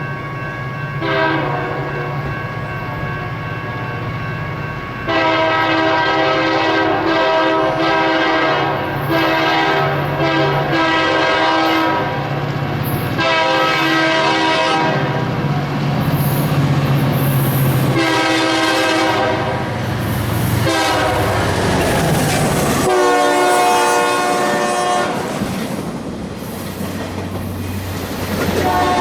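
Diesel locomotive passing with its air horn sounding a series of long blasts and shorter toots, the chord starting and stopping several times. Underneath are the engine's steady low drone and rail clickety-clack.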